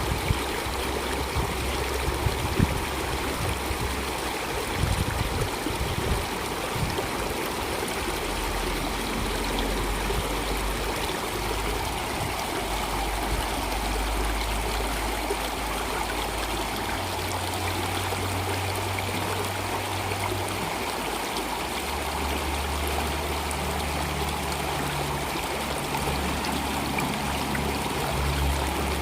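Water flowing steadily in a stream, an even rushing babble with a few sharper splashes in the first few seconds. A low steady hum lies underneath and changes pitch several times.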